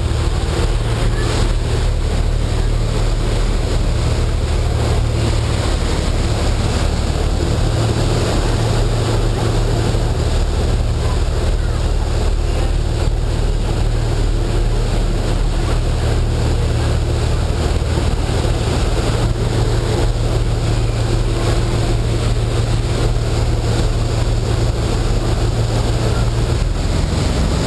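Boat's engine running steadily under way: a low, even drone under a constant wash of wind and water noise.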